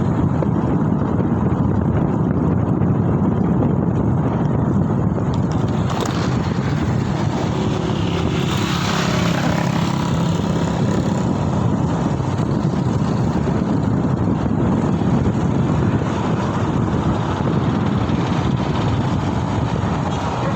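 Steady rush of wind buffeting the microphone with road and traffic noise from a moving ride. A brighter hiss swells briefly about halfway through.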